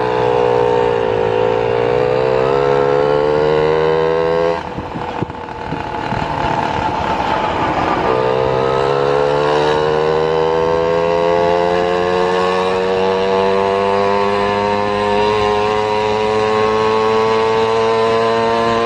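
Car engine heard from inside the cabin, accelerating through the gears: its pitch climbs, drops out for a gear change about five seconds in, then rises slowly and steadily as the car pulls away again.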